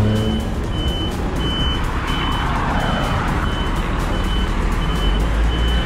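A truck's reversing alarm beeping at an even pace, about one and a half beeps a second, over the low running of the truck's diesel engine.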